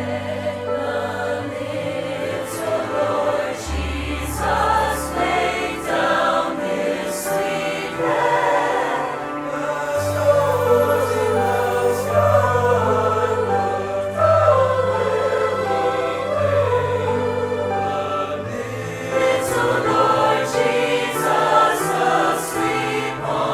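A choir of church members singing a song with instrumental accompaniment, several voices carrying a melody over long held bass notes that change every few seconds.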